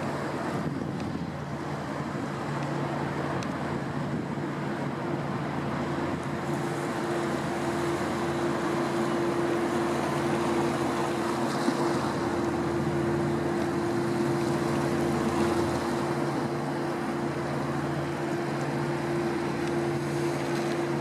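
A passing boat's engine drone, a steady low hum that grows slowly louder, over a wash of wind and water.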